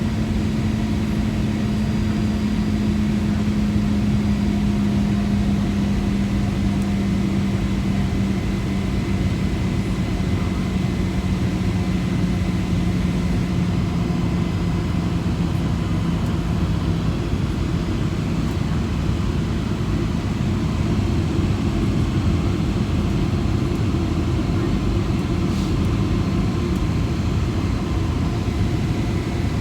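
Boeing 757 engines and airflow heard inside the passenger cabin during landing: a steady rumble, with an engine tone that slowly falls in pitch and fades over the first half.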